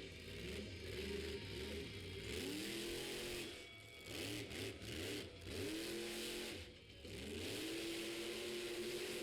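Monster truck engine revving hard again and again, its pitch climbing and falling back several times as the truck is driven through a freestyle run.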